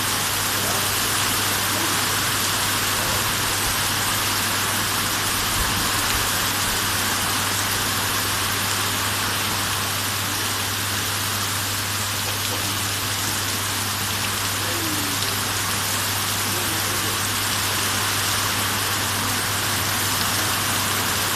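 Steady rain falling, an even hiss that neither builds nor fades, with a low steady hum underneath.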